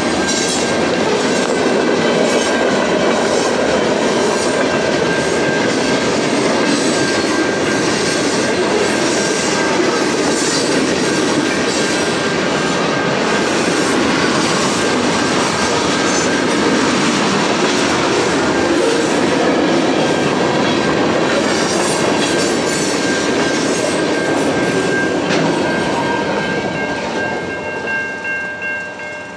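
Freight train of tank cars rolling through a level crossing: a steady rumble and clatter of wheels on the rails, with the crossing's warning bell ringing throughout. Near the end the last car clears, the rumble fades, and the bell's regular strokes stand out.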